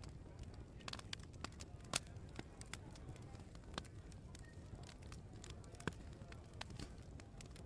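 Open wood fire crackling, with sharp irregular pops, the loudest about two seconds in and near six seconds, over a steady low background rumble.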